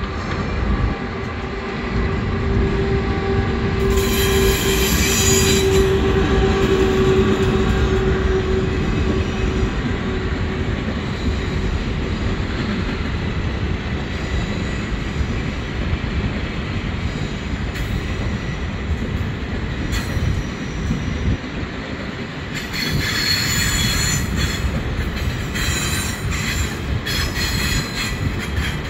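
Trains running slowly past on station tracks: a steady rumble of wheels on rail with a held hum in the first several seconds. There are bursts of high hissing wheel squeal a few seconds in and again near the end.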